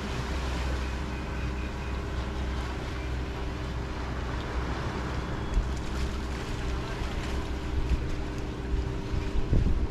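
Harbor ambience: steady wash of waves and water with wind buffeting the microphone, and a steady low hum of a boat motor running. A few louder gusts near the end.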